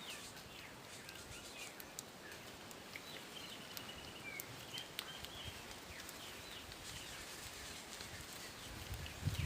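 Small birds chirping in short, quick calls over faint steady outdoor background noise, with a few scattered clicks; a low rumble starts near the end.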